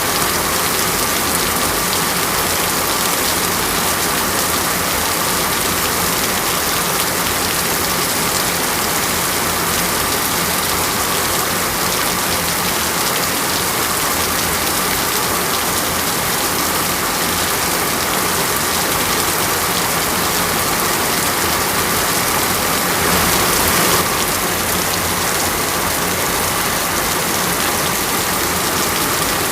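Steady rain falling and splashing on surfaces, an even hiss and patter that swells briefly about three-quarters of the way through.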